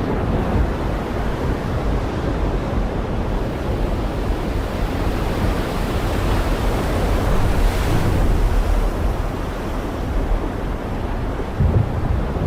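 Heavy rain falling steadily, a dense even hiss over a low rumble, with a brief swell about eight seconds in and a couple of low thumps near the end.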